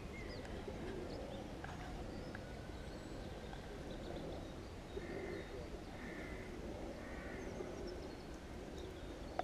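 Wild birds calling in a park: scattered short chirps, and three short calls about a second apart around the middle, over a low steady background rumble.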